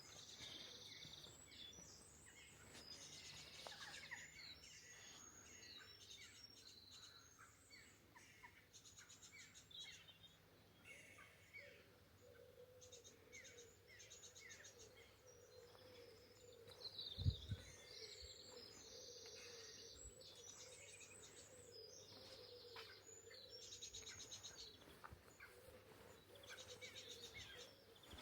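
Faint birdsong from several small birds chirping and singing in short phrases. A faint steady low hum comes in for the middle part, and a single low thump sounds about two-thirds of the way through.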